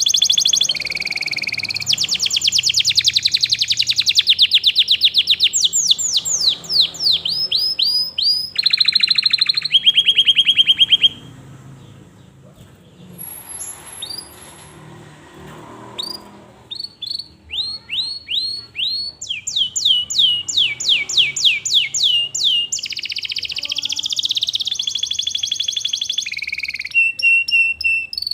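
Domestic canary singing loudly: long rapid trills and runs of quick notes that each sweep down in pitch, with a pause of a few seconds about halfway through.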